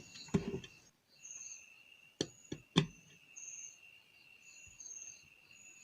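Insects chirping steadily in the background, a high continuous trill with a pulsing call above it, broken by a few sharp clicks and knocks, the loudest about two and three seconds in.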